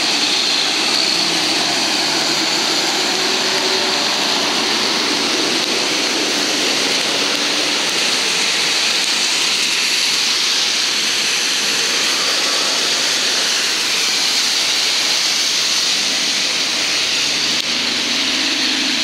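Heavy rain falling, a steady hiss without let-up.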